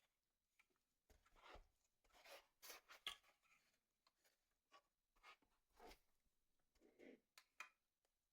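Near silence with faint rustling and scraping and a few light clicks.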